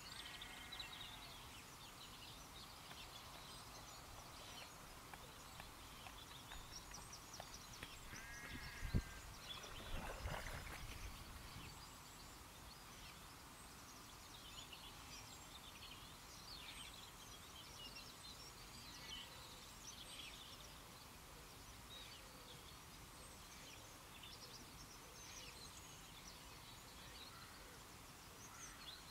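Faint birdsong: many small birds chirping and singing over a quiet outdoor background. There is a single knock about nine seconds in, followed by a brief rush of noise.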